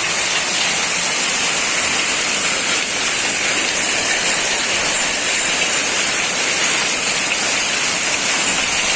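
Hailstorm: heavy rain mixed with hail pouring down in a steady, dense hiss.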